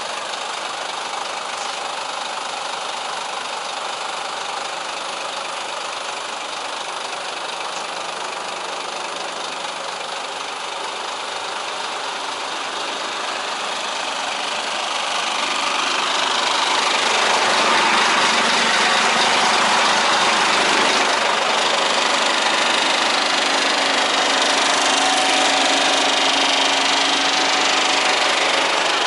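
Scania 124 420 truck's diesel engine running steadily, growing louder over a few seconds about halfway through and staying at the higher level.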